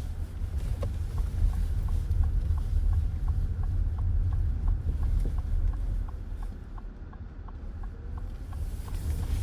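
Car cabin road noise with a low steady rumble, and the turn-signal indicator ticking about three times a second from about a second in, as the car makes its left turn.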